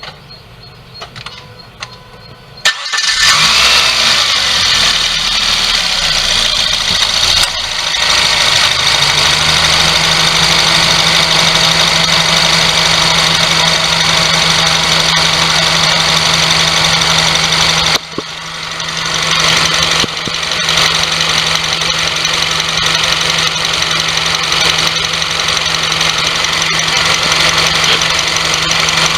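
Mazda Demio engine starting about three seconds in, then running steadily and loudly with an abnormal noise from the engine bay: play in the alternator's rotating shaft. The level drops sharply near the middle, then climbs back as it keeps running.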